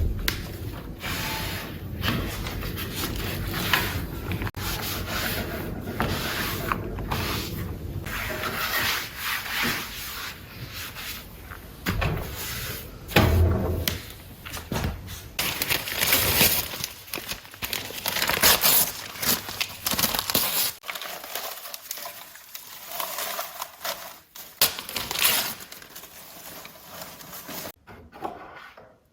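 Irregular scraping and rubbing noises, a run of uneven strokes that thins out in the second half.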